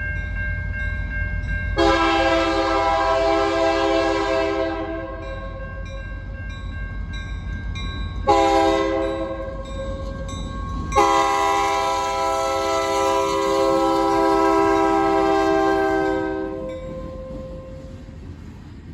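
Locomotive air horn sounding a chord of several pitches: a long blast, a short one, then a longer one, over a low steady rumble that drops away with the last blast.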